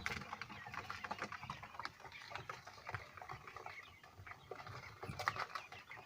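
A brood of five-day-old Texas quail chicks peeping and moving about, many short chirps and ticks overlapping, busier about five seconds in.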